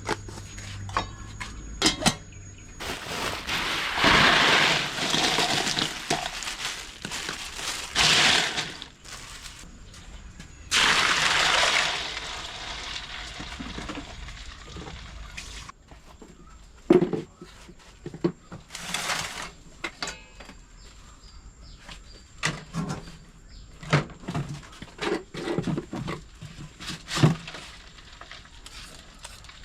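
Kitchen food-preparation sounds: two spells of splashing, pouring water, then scattered knocks and clatter of utensils and dishes.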